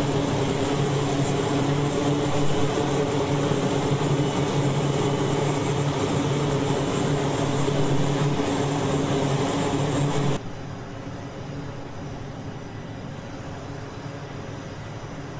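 Twin-propeller aircraft's turboprop engines running loudly and steadily on a carrier flight deck, with a low, droning propeller hum. About ten seconds in the sound cuts off abruptly to quieter, steady deck noise.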